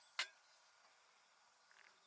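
A single sharp click or snap about a quarter of a second in, over faint outdoor background with chirping insects.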